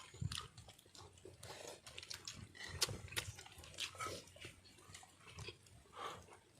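Close mouth sounds of eating: irregular chewing, lip smacking and small clicks.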